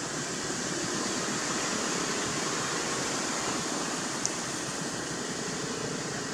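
Steady rushing background noise with no clear pitch, and a brief high blip about four seconds in.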